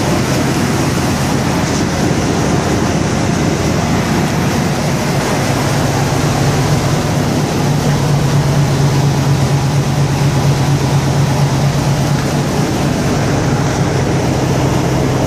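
1995 Chevy K1500's 350 V8 engine idling steadily just after a cold start at 30 below zero, with a low hum that grows stronger about halfway through.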